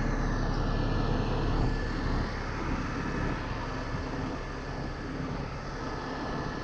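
Heavy-duty tow truck's engine running steadily while its hydraulic lift is extended, with a slight drop in level about two seconds in.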